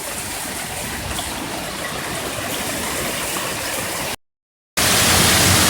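Heavy hail falling and pelting the ground outside, a steady dense clatter. It cuts out for about half a second a little past four seconds in and comes back louder.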